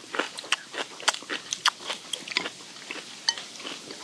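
Close-miked eating sounds: chewing and crunching of steamed skate, whose soft cartilage is eaten along with the flesh, in irregular crisp clicks and crunches.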